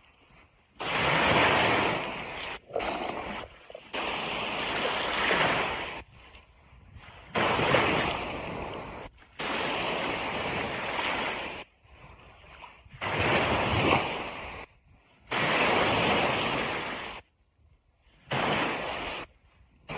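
Ocean surf washing on a beach, a steady rush of water that swells and falls in waves and cuts out abruptly for a moment every few seconds.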